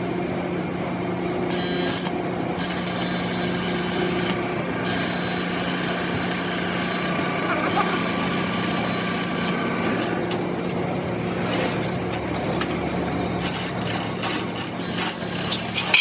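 A steady motor hum with workshop noise, then a quick run of sharp metallic clinks near the end.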